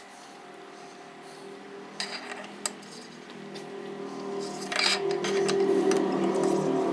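Metal engine parts and tools clinking as a small engine is put back together, a few sharp clicks in the first half and more about two thirds in. Under them a steady hum grows louder through the second half.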